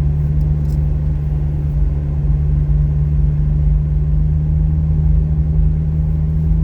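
McLaren Artura's twin-turbo V6 hybrid drivetrain running at a steady low speed, heard from inside the cabin as an even, unchanging drone with road rumble underneath.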